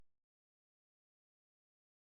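Near silence: a very faint trace fades out in the first instant, then nothing.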